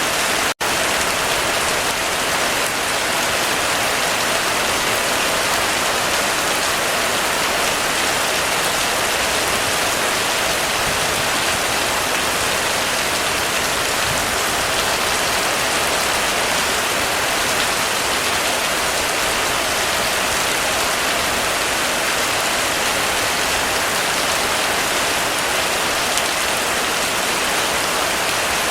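Heavy rain drumming steadily on a roof, a dense, even hiss of drops. The sound cuts out for a split second about half a second in.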